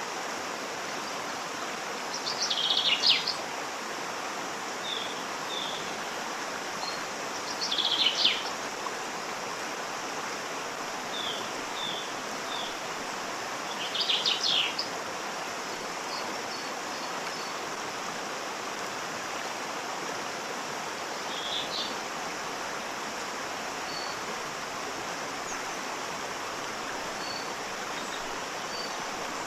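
Steady rushing of a waterfall, with birds calling over it: three louder bursts of song about six seconds apart, a shorter one later, and scattered short chirps.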